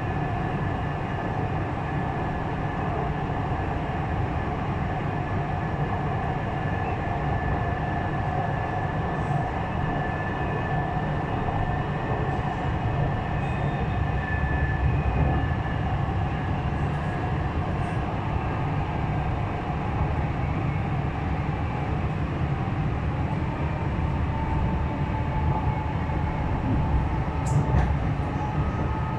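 Nanjing Metro Line S9 train running at speed with a steady rumble and a continuous electric motor whine. The whine's pitch rises slightly about two-thirds of the way in.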